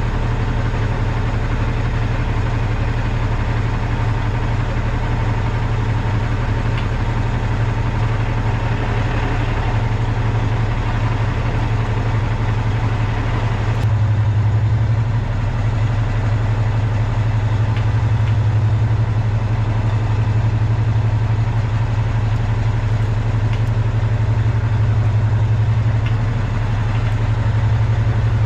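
Semi truck's diesel engine running steadily at low revs, a constant low drone, with a single click partway through after which it runs slightly louder.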